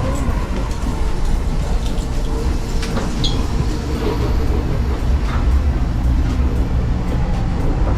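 Amtrak Acela train running at speed, heard from the gangway between two cars: a loud, steady low rumble with a few sharp clicks and brief squeaks.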